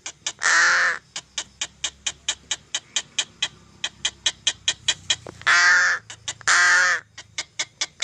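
Crow cawing: three loud, harsh calls of about half a second each, one just after the start and two about six seconds in. Between the calls runs a fast series of sharp clicks, about six a second.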